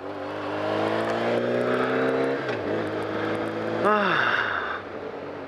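BMW K1200R's inline-four engine accelerating away, its pitch rising steadily, then dropping at an upshift about two and a half seconds in and running on more steadily under wind noise, easing off near the end.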